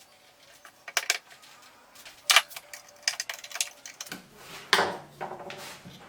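Woodworking handling sounds: scattered sharp clicks and knocks of tools and wood being set in place, then a rougher rubbing sound about four seconds in.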